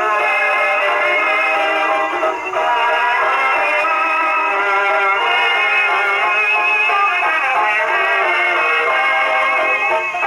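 A Victor Type V acoustic horn phonograph playing a worn dance-band record. The sound is steady, thin and has no bass.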